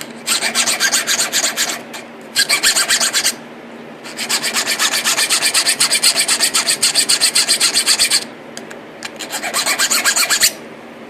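Needle file rasping along the steel edge of a work knife in quick back-and-forth strokes, sharpening it. There are four runs of rapid strokes with short pauses between them.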